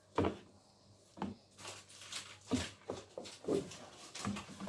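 Stirring fufu flour and starch into water in a bowl: a series of irregular scrapes and knocks against the bowl, about one or two a second.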